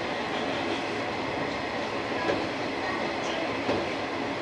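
185 series electric multiple unit running along the line, heard from inside the front cab: a steady rumble of running noise, with a couple of short wheel knocks over rail joints.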